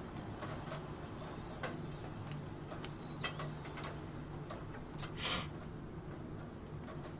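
Typing on a computer keyboard: sparse, irregular key clicks over a steady background of rain. About five seconds in comes one longer, louder burst of noise, the loudest sound here.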